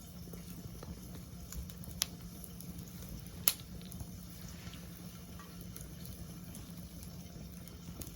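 Wood campfire burning: a steady low hiss with scattered faint crackles and two sharp pops, one about two seconds in and a louder one about three and a half seconds in.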